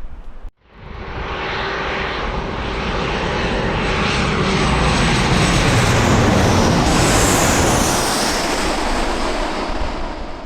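Jet airliner passing close by: the engine noise builds to a loud peak, then fades, and a high whine drops in pitch as it goes past.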